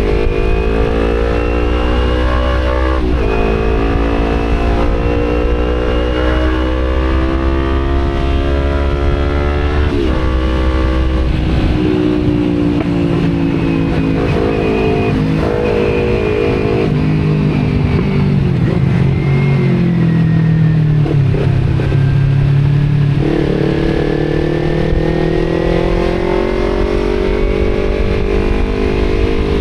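Kawasaki Z250 parallel-twin with an Akrapovic exhaust riding through traffic. The engine pitch climbs under acceleration and drops sharply at gear changes twice in the first stretch, holds lower through the middle, then climbs again near the end.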